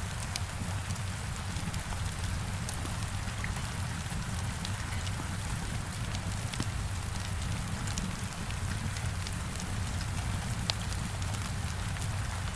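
Heavy rain on a window mixed with a crackling wood fire: a steady hiss over a low rumble, with scattered sharp ticks and pops.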